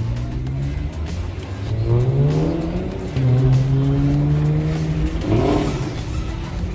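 A car engine revving: it climbs, holds high for a couple of seconds, then drops and picks up again near the end. Background music plays underneath.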